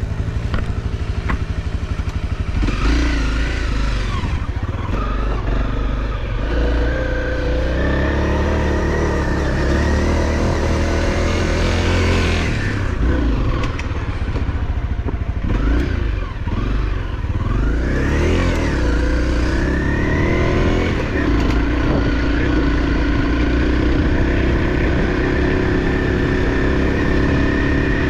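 Off-road motorcycle engine running under load, its pitch rising and falling as the throttle is opened and eased, with sharp rev-ups about halfway through and again a few seconds later.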